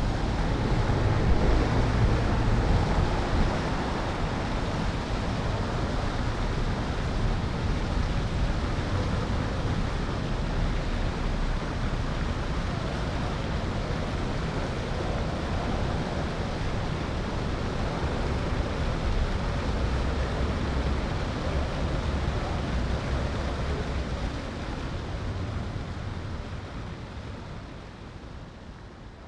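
Wind rushing over a handlebar-mounted action camera with tyre and road rumble from a riding electric scooter, a steady noise heavy in the lows. It fades out over the last few seconds.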